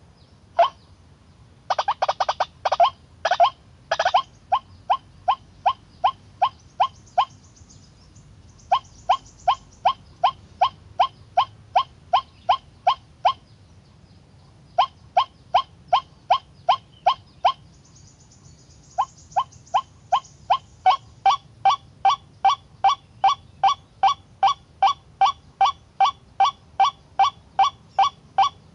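White-breasted waterhen calling its repeated 'ruak' note, about three calls a second, in long bouts broken by short pauses. A few harsher, rougher calls come early on, about two to four seconds in.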